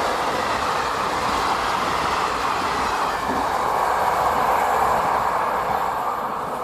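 A train rolling past on the line, a steady loud rush of wheels on rails that begins to fade near the end.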